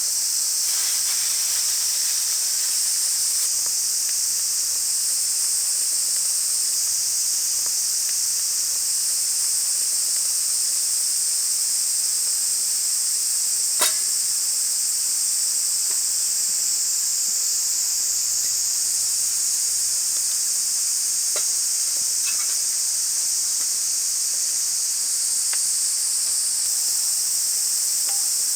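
Steady high-pitched chorus of summer insects, with one sharp crack about halfway through and a few fainter ticks later.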